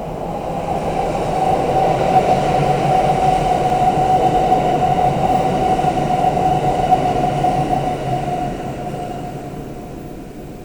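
Electric passenger train passing through a station without stopping. There is a rumble of wheels on rail and a steady whine that build over the first couple of seconds, hold, then fade away in the last few seconds as the train moves off.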